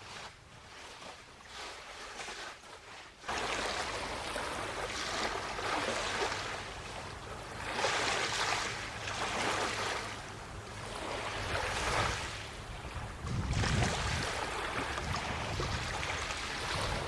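Waves washing on the shore, surging every couple of seconds. They come in suddenly about three seconds in, after a quieter start.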